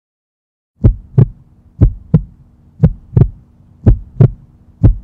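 Heartbeat sound effect: deep double thumps, one pair about every second, starting just under a second in, over a steady low hum.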